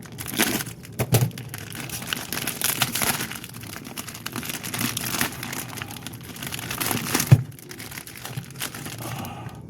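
Packaging of a motorcycle battery's acid pack crinkling and rustling as it is handled and opened, with scattered clicks and a few knocks, the sharpest about seven seconds in.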